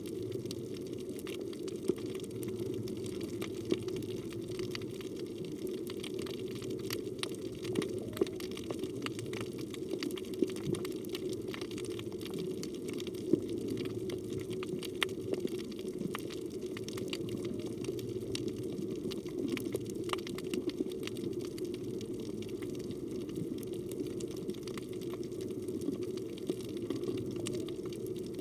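Underwater reef ambience: a steady low rush of water with many sharp crackling clicks scattered throughout.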